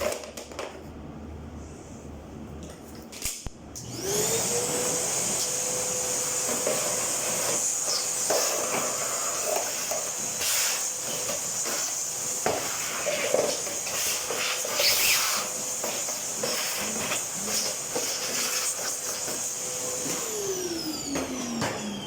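Dryer motor switched on, whining up to speed in about half a second and running steadily with a hiss and irregular knocks and rattles, then switched off about 16 seconds later, its pitch falling as it winds down.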